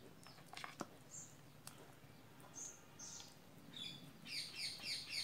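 A bird chirping: a few scattered high chirps, then from about four seconds in a quick run of repeated chirps, about three a second. A few faint clicks in the first two seconds.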